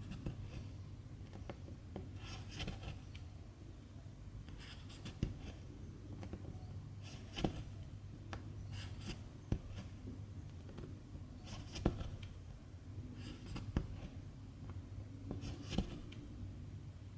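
Needle and silk thread being pulled through cross-stitch fabric: a soft swish of thread roughly every two seconds, with small clicks of the needle against the fabric. A low steady hum runs underneath.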